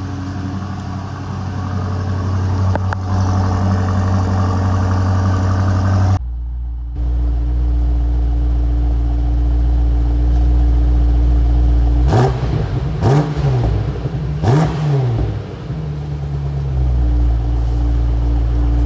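BMW X5 M's twin-turbo V8 idling, then revved twice in quick blips about twelve to fifteen seconds in, dropping back to a steady idle.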